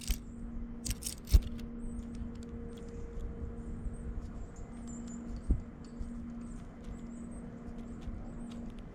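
Small birds calling with many short, high chirps over a steady low hum. A few sharp knocks cut in, the loudest about a second and a half in, another about five and a half seconds in.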